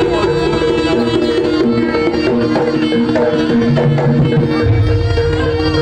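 Loud live Jaranan gamelan music from Kediri: steady hand-drum (kendang) rhythm over held, ringing metallophone tones, with a deep gong swelling near the end.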